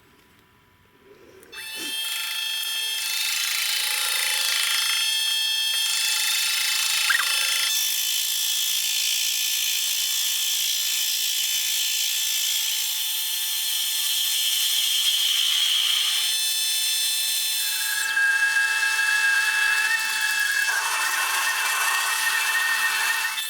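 An electric power tool starts up about two seconds in and runs steadily, a dense hiss with high whining tones. Its tone shifts around eighteen seconds in and again a few seconds later, and it stops at the very end.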